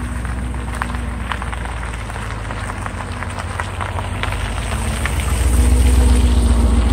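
2018 Chevrolet Camaro ZL1's supercharged 6.2-litre V8 idling with a steady low rumble that grows louder about five seconds in, with scattered light clicks over it.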